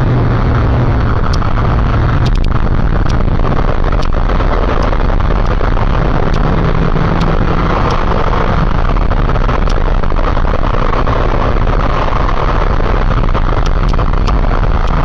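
Motorcycle on the move: a steady rush of wind on the microphone with the engine running underneath, at an even speed.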